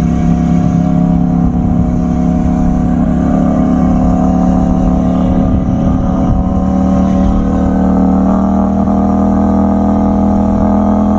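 CFMoto 800MT Touring's parallel-twin engine running at a steady cruise, its note holding level, with wind rush underneath.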